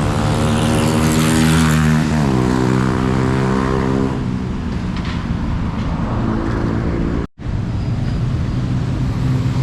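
Outdoor traffic: a motor vehicle's engine hum with a steady pitch that drops about two seconds in as the vehicle passes and fades, over steady road noise. The sound cuts out for an instant about seven seconds in.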